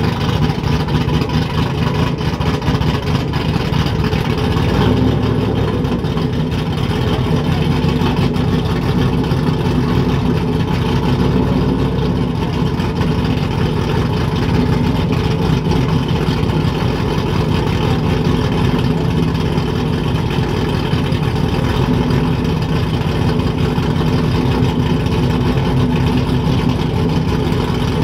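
A truck engine running loud and steady close by, with a rapid pulsing exhaust note and no change in speed.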